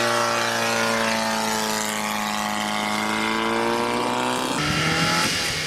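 Small car engine running at high, steady revs while driving; its pitch sags slightly and rises again. About four and a half seconds in, the sound cuts suddenly to a lower engine note.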